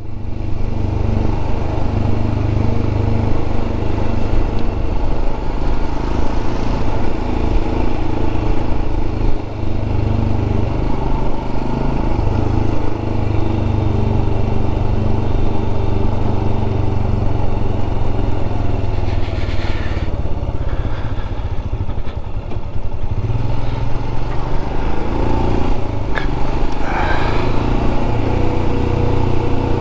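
Royal Enfield 411 cc single-cylinder motorcycle engine running steadily under way, with wind rushing over the rider's microphone. In the last few seconds the engine note rises and falls as the speed changes.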